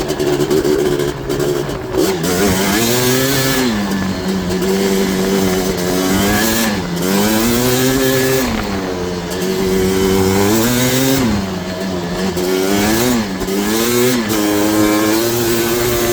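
Yamaha Blaster ATV's 240cc big-bore single-cylinder two-stroke engine, breathing through an FMF exhaust with Arc silencer, riding under throttle. Its pitch repeatedly drops and climbs back, about half a dozen times, as the throttle is eased and opened again.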